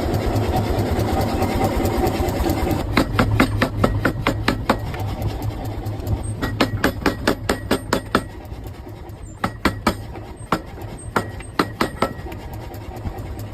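A steady machine hum, then from about three seconds in a run of metallic hammer strikes forging a steel axe blank, several blows a second in uneven bursts.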